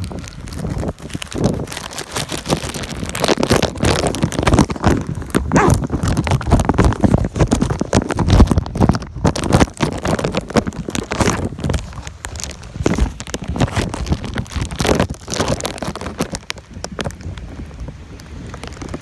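Gusty tropical-storm wind buffeting the phone's microphone, rising and falling in loud, irregular gusts with a heavy low rumble.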